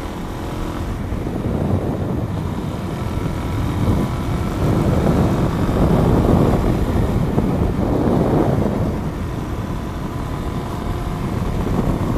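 Supermoto motorcycle being ridden on the road, its engine running under way with rushing wind noise. The sound grows louder toward the middle, eases, and rises again near the end.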